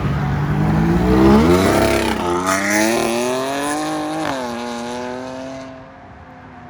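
Supercharged V6 Dodge Challenger accelerating hard away. The engine revs climb, drop at an upshift about two seconds in, and climb again to a second shift about four seconds in. After that the note holds steady and fades as the car pulls away.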